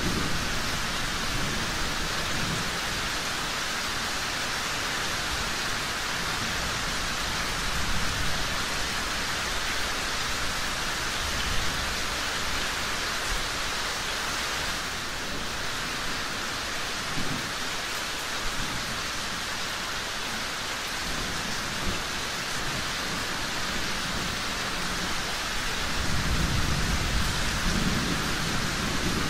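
Steady rain falling, with a low rumble of distant thunder swelling near the start and again near the end.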